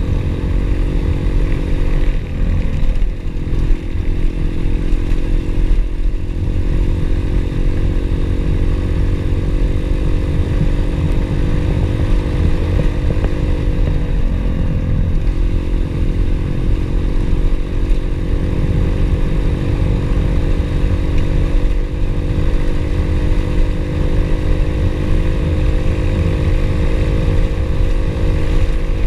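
Pit bike engine running at steady revs under way, with a brief dip in pitch about two seconds in and again about halfway through, over a low rumble.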